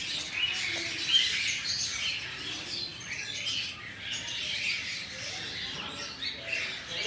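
Albino cockatiels chirping and chattering, many short overlapping calls with no pause.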